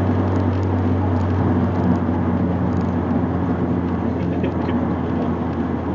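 Turbocharged Dodge Neon's four-cylinder engine running steadily under way, with road noise, heard from inside the cabin.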